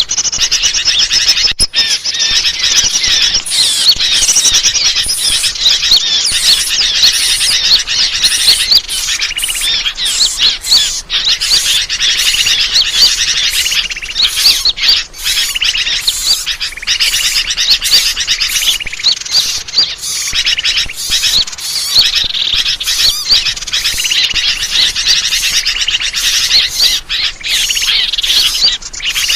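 Dense, unbroken chattering and chirping of many small birds at once, a bird-lure (pikat) recording made to draw birds in.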